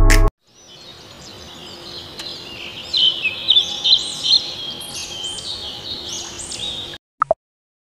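Birds chirping and twittering in a quick run of short high calls, growing louder over the first few seconds and stopping abruptly near the end. A heavy bass music note ends just at the start.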